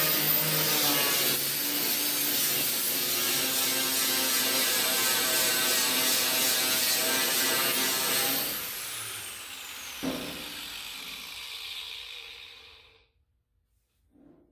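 Angle grinder stripping paint and rust from metal, running steadily with a high whine. About eight and a half seconds in it is switched off: the whine falls as the motor spins down, with a single knock about ten seconds in, and it stops a few seconds later.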